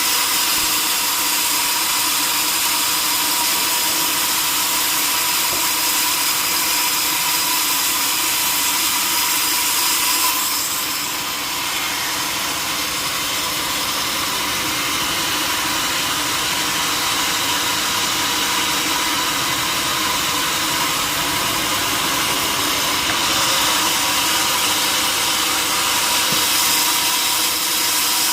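A sawmill saw cutting steadily through a log: a constant high hiss with a steady whine underneath, easing briefly about ten seconds in.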